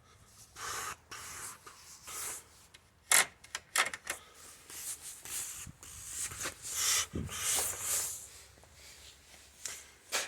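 Irregular scraping and rubbing with a few sharp clicks about three seconds in: hands handling and working on hard parts.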